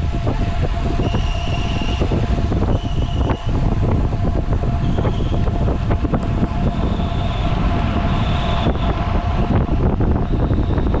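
Wind rushing and buffeting over the microphone of a road cyclist riding at speed, with a faint steady whine underneath.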